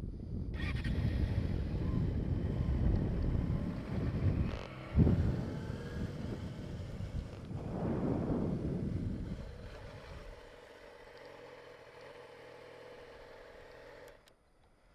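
Wind buffeting the microphone while a 2007 Yamaha YZF-R6 inline-four sport bike rides a short way at low speed, with a sharp knock about five seconds in. The engine then idles steadily for a few seconds and cuts off suddenly near the end, switched off at the stop.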